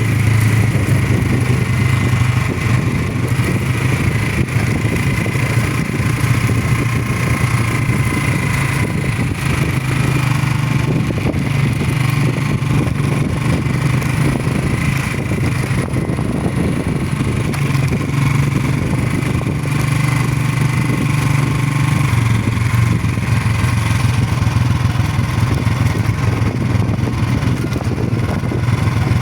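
Motorcycle engine running steadily while being ridden, its pitch shifting slightly now and then.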